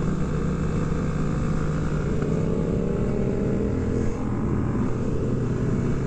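Motorcycle engine running steadily while riding, with the pitch slowly rising partway through.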